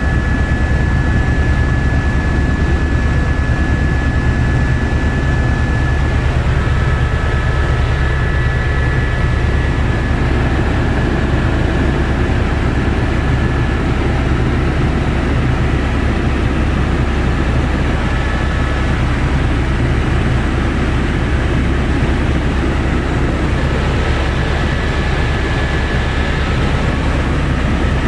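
Helicopter in flight: a steady, loud, low drone of engine and rotor, with a thin high tone over it.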